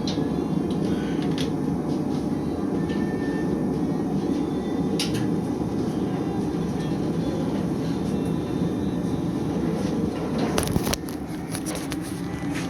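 Steady low rumble of shop machinery running, broken by a few sharp metallic clicks and a short cluster of clattering knocks near the end, after which the running noise drops a little.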